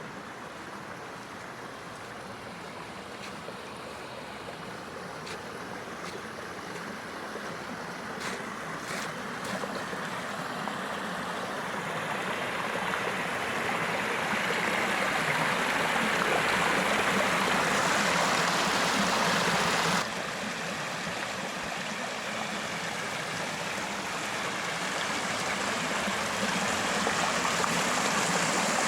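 Water running down a man-made garden stream and splashing over a waterfall into a pond: a steady rushing that grows louder, drops suddenly about two-thirds through, then builds again.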